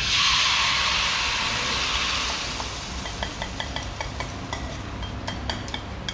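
Chicken pieces going into hot oil: a sudden loud sizzle that eases off over about three seconds into a steady lower sizzle with scattered crackling pops.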